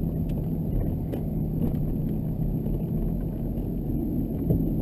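Steady low rumble of a Chevrolet pickup's Duramax LB7 6.6-litre V8 turbo-diesel running, heard from inside the cab, with a faint steady hum and a few light clicks.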